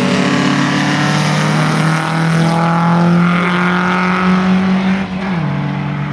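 Drag-racing car engine running at high, steady revs, its pitch dropping sharply about five seconds in as the revs fall.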